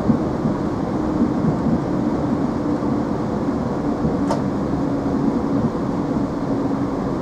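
Running noise inside a moving Chiltern Railways Class 165 diesel multiple unit: a steady rumble of wheels on rail and the underfloor diesel, with a faint steady hum from about a second in and a single sharp click about halfway through.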